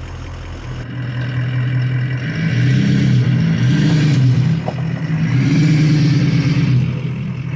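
Ford F-250 Power Stroke turbodiesel V8 engine revving up and down. It gets louder about a second in and again a little later.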